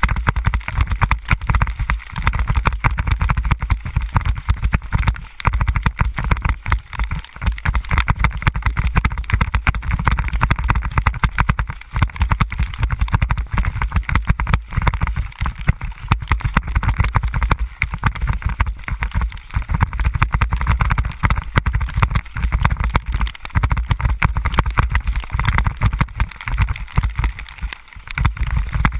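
Wind buffeting the camera microphone while riding, a continuous choppy rumble with hiss from the road and air.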